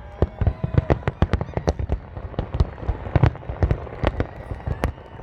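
Fireworks display: rapid, irregular bangs of aerial shells and crackers bursting, several a second, with faint whistles in between.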